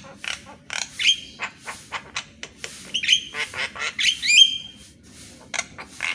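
Javan myna (jalak kebo) song: a rapid string of harsh, chattering squawks and clicks, broken by a few upward-sliding whistled notes that level off, about a second in and again around three and four seconds in.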